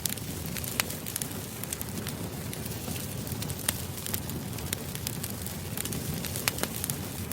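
Wood fire burning steadily, with a low rumble under irregular sharp crackles and pops of burning logs.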